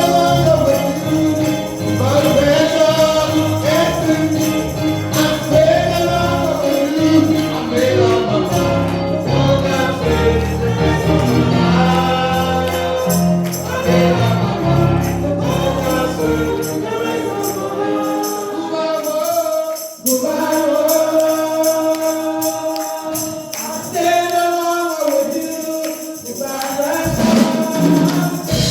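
Gospel music: a choir singing with tambourine and instrumental backing. The low bass drops out about two-thirds of the way through.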